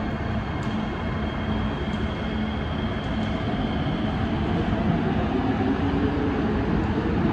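SMRT C151B electric metro train running in towards the platform, a steady rumble of wheels and running gear with a faint high whine, growing louder through the second half.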